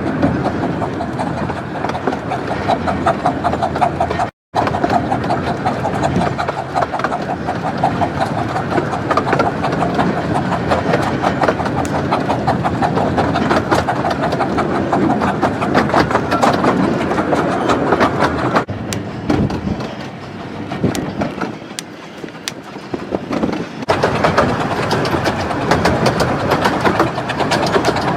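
Miniature 15-inch gauge Romney, Hythe and Dymchurch Railway train running on the rails, with a steady clatter of wheels and rapid clicking. It eases off for a few seconds about two-thirds of the way through, then comes back just as loud.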